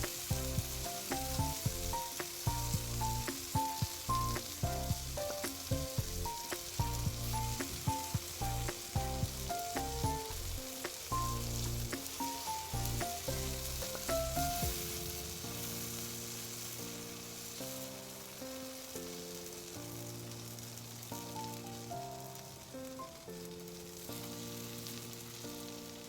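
Meat sizzling as it grills over a campfire, a steady crackling hiss, under background music whose melody continues throughout while its bass drops out about halfway.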